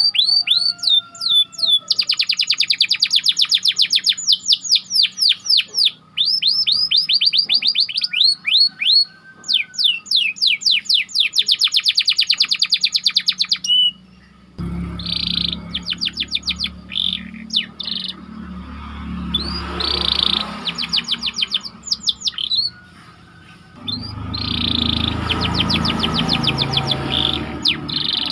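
Domestic canary singing fast, tight rolling trills: runs of rapidly repeated high notes broken by short pauses. About halfway in, a low rumble joins under the song.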